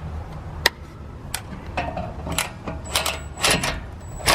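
Hand tools clinking against metal while working on a car: about half a dozen sharp, irregular clinks and taps.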